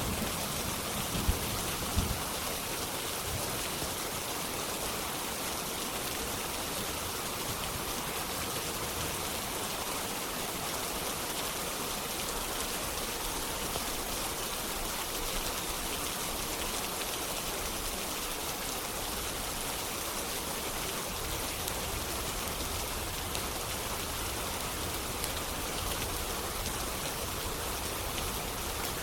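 Steady rain on a window, an even hiss. Two short low thumps come about one and two seconds in.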